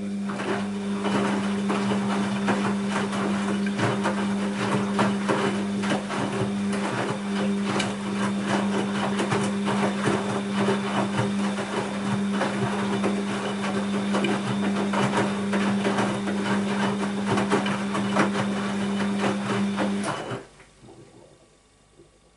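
Bosch WAB28220 washing machine running its quick-wash cycle: a steady motor hum at one pitch over a dense clatter from the drum. It cuts off about 20 seconds in.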